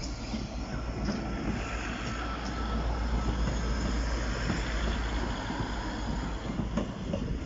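Class 156 Sprinter diesel multiple unit passing close by over a level crossing: a steady rumble of its underfloor diesel engines and wheels on the rails, loudest midway, with a faint whine running through it.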